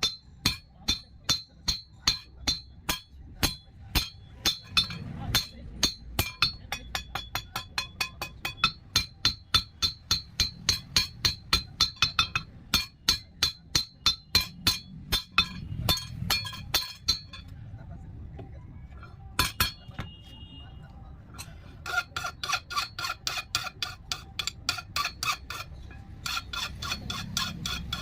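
Hammer blows on a steel rod over an anvil, ringing, about three to five a second, stopping for a few seconds past the middle before the hammering resumes.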